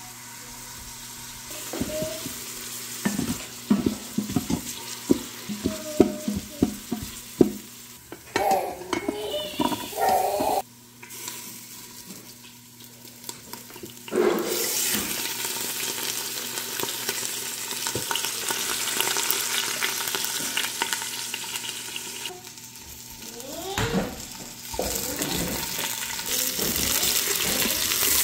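Chicken pieces frying in the hot stainless inner pot of an Instant Pot on sauté. It starts with a run of knocks and clatter, then a steady sizzle sets in suddenly about halfway through as a chicken leg goes into the oil. Near the end a wooden spoon scrapes and stirs.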